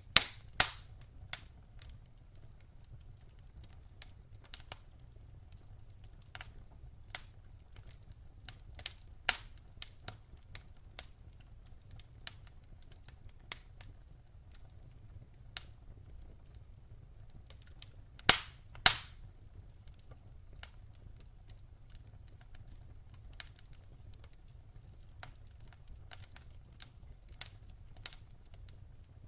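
Wood fire crackling: scattered sharp pops and snaps over a faint low rumble, with a few loud pops near the start and again about two-thirds of the way through.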